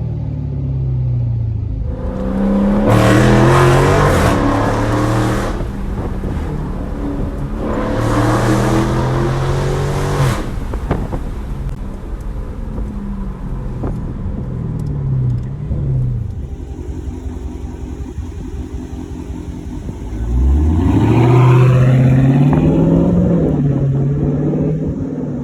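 A 2018 Dodge Charger Scat Pack's 6.4-litre V8, with its mid mufflers deleted, is run up hard three times, its pitch climbing steeply and then dropping back. The loudest surge starts about twenty seconds in, with quieter running between the surges.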